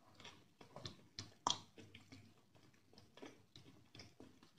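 Close-miked chewing of a mouthful of rice and chicken curry: a string of short, irregular wet smacks and clicks, the sharpest about a second and a half in.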